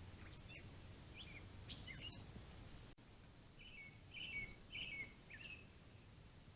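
Wild songbirds calling faintly: a scatter of short, high, downslurred chirps, then a second run of four or five similar chirps about four seconds in.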